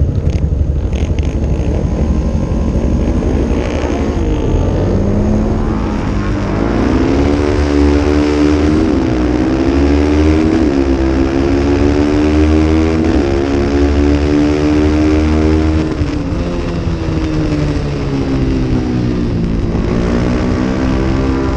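Small-displacement racing motorcycle engine revving hard, its note climbing and dropping again and again through the gears from about five seconds in, over a heavy low rumble.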